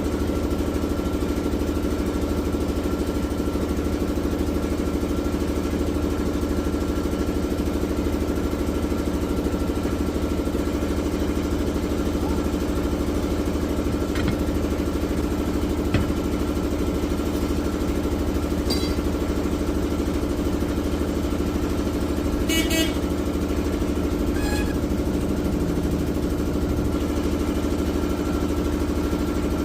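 An engine running steadily at an even speed, with a few short metallic clicks and knocks over it, the sharpest about two-thirds of the way through.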